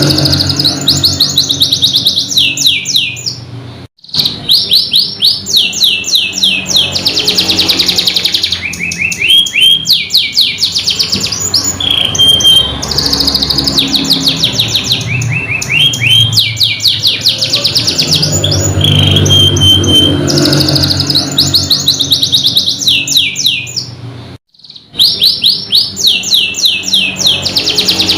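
Domestic canary singing a long, loud song of rapid trills and rolls: fast runs of repeated high sweeping notes, changing from one trill to the next every second or two. The song breaks off briefly twice, about four seconds in and near the end.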